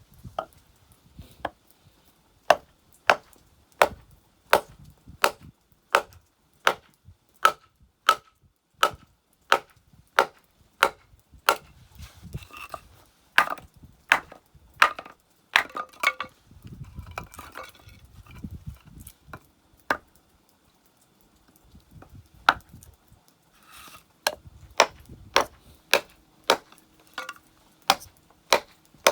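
Firewood being chopped, sharp woody strikes in a steady rhythm of about one and a half a second, with a pause of a few seconds past the middle before the chopping resumes.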